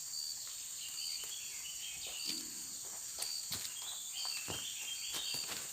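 Forest ambience: a steady high insect drone, with a short high note repeating about once a second and a bird calling in short stepped phrases. Scattered clicks and rustles run through it.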